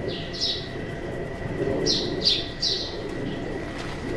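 Small bird chirping: short, high, falling chirps, two near the start and three in quick succession about two seconds in.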